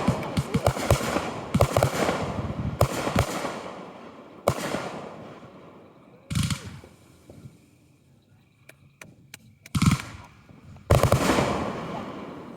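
Fireworks going off: a string of loud bangs, several in quick clusters in the first few seconds, each trailing off in an echoing rumble. Further single booms follow, with a few thin sharp cracks between them.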